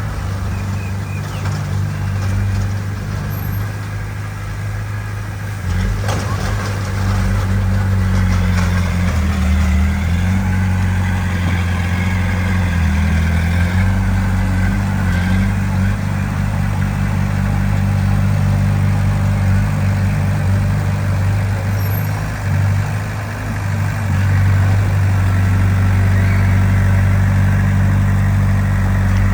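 Heavy diesel engine of earthmoving machinery running steadily, with a knock about six seconds in where it gets louder and works harder, its pitch shifting up and down for a few seconds after.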